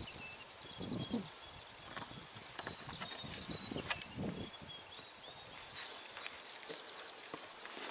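Wild birds singing with high, fast trills and chirps, over a few low muffled thumps about a second in and about four seconds in.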